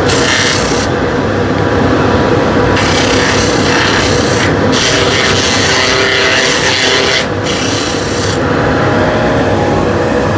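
Sandpaper rubbing against a spinning wooden workpiece on a wood lathe, a steady loud hiss that thins in the high end several times as the paper is lifted or shifted, with the lathe running underneath.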